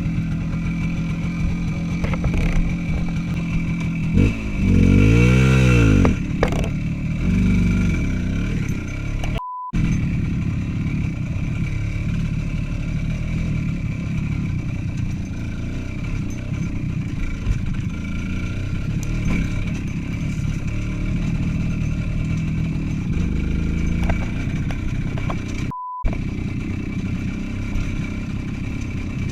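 Motorcycle engine running under way, with a loud rev rising and falling about five seconds in. The sound cuts out for a moment twice, with a short beep each time.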